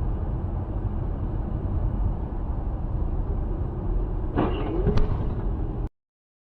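Steady low rumble of a moving vehicle's engine and road noise, recorded from inside the car. Near the end there is a short sound that bends in pitch and a sharp click, and then it cuts off suddenly.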